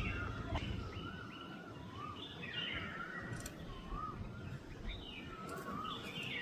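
Jungle babblers calling: a run of short, wavering calls repeated over and over, several birds overlapping.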